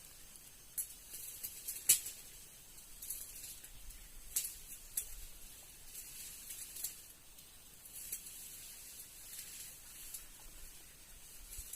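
Quiet outdoor background: a faint, steady high hiss with a scattered handful of sharp clicks, the loudest about two seconds in.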